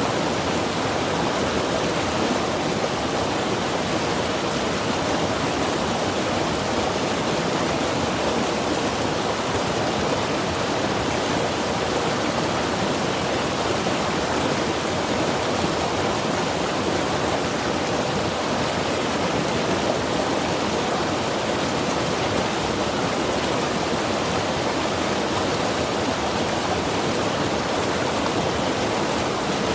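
Mountain river rushing over rocks, a steady, full water noise with no change.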